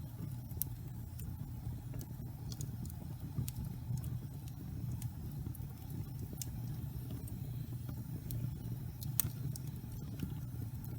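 Wood log fire burning: a steady low rumble of the flames with scattered sharp crackles and pops, one louder pop near the end.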